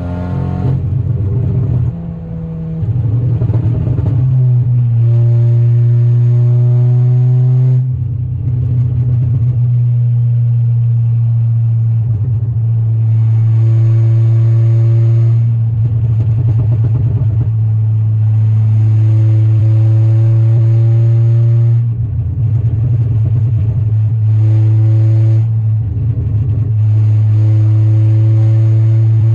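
Tuned Stage 3 VW Golf R's turbocharged four-cylinder engine, loud, pulling hard through the revs again and again, with a rising pitch that breaks off at each gear change before climbing again. Several pulls and shifts, under a steady low drone, heard from inside the car.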